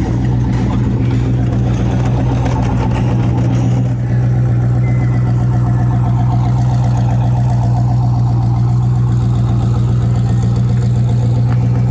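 A car engine idling steadily, a loud, even low hum, with a slight change in its sound about four seconds in.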